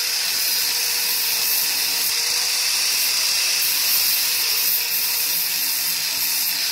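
Small high-speed power tool running steadily, a dense abrasive hiss over a faint, slightly wavering whine, as when grinding or sanding metal.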